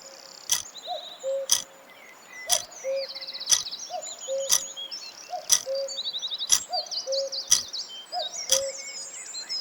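Countdown-timer sound effect ticking once a second, a sharp click and a short blip on each beat, over a recorded bed of birdsong with rapid high chirps and trills.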